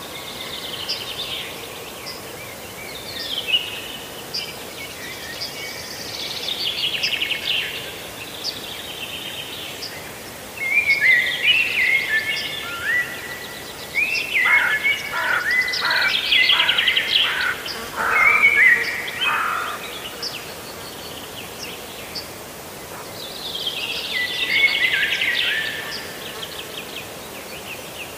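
Songbirds singing: phrase after phrase of chirps and fast trills that slide down in pitch, busiest and loudest in the middle stretch.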